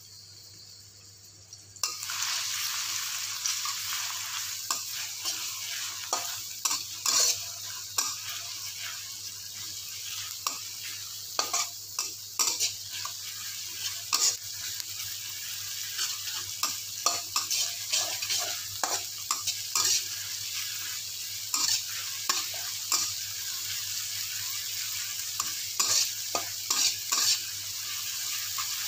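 Chopped garlic and shallots sizzling in hot oil in a wok; the sizzle starts abruptly about two seconds in. A metal spatula scrapes and clicks against the wok over and over as they are stirred.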